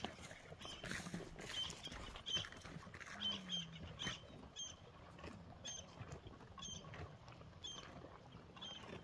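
Faint short high chirps from a small bird, repeating about every half second to a second, over light rustling. About three seconds in there is a brief low falling moan.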